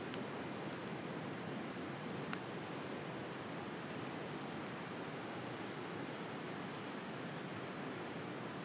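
Wood bonfire crackling with a few scattered pops, one sharper pop about two seconds in, over a steady wash of sea surf.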